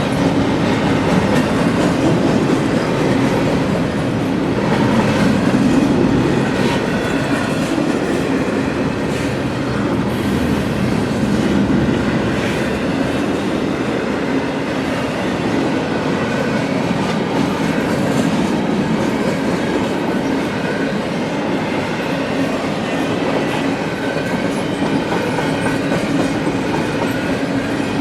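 CSX freight train rolling past, steel wheels running on the rails in a steady, loud rumble.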